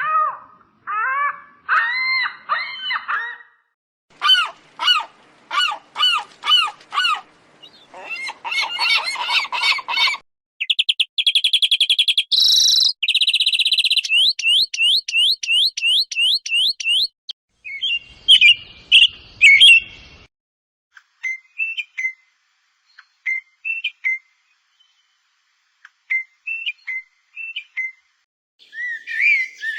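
Bird calls: a series of different birds' chirps, rapid trills and whistled notes, one kind after another with short gaps between them. Sparser single chirps come in the last third.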